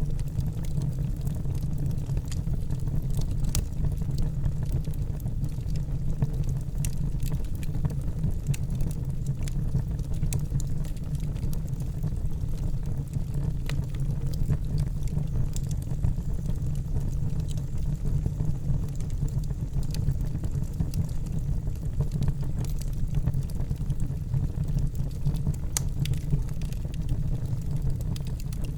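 Wood fire burning in a fireplace: a steady low rumble of the flames with frequent scattered crackles and pops from the burning logs.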